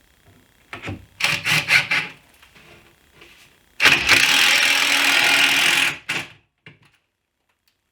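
Boards knocking and clattering as they are handled, then a power saw cutting through wood with a loud, steady rasp for about two seconds before stopping abruptly.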